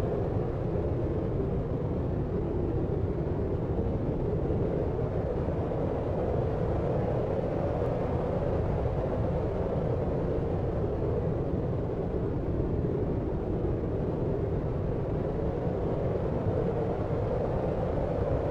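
Steady deep noise, a low, even rumbling hiss with most of its weight in the bass and lower midrange and nothing standing out of it.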